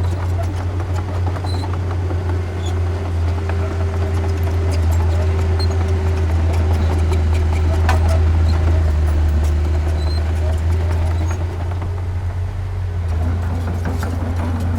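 Diesel engine of heavy earthmoving machinery running steadily with a deep drone, with scattered metallic clicks and a few short high squeaks over it.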